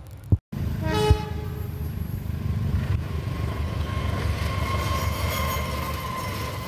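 A train horn sounds briefly about a second in, then a passing train's steady rumble follows, with a steady high tone riding above it.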